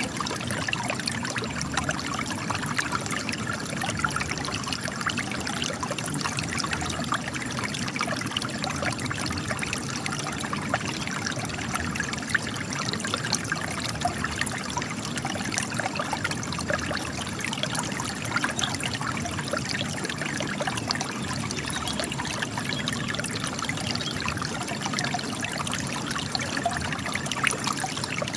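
Spring water gushing and trickling out of cracks in rock, a steady splashing with many small drips and gurgles throughout.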